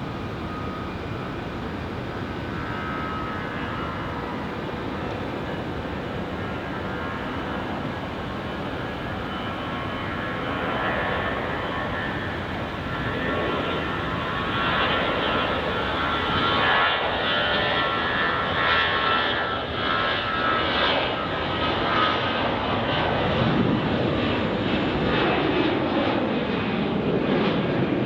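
Airliner's engines, getting louder about ten seconds in and louder again a few seconds later as the aircraft draws near, with a whining tone over a steady noise.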